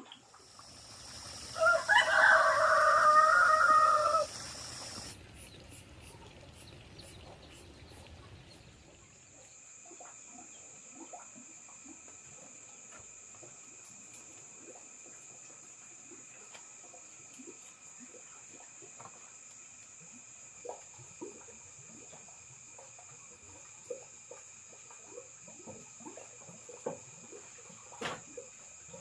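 A rooster crowing once, a loud call of about three seconds starting a second and a half in. Afterwards a steady high insect drone and faint scattered ticks.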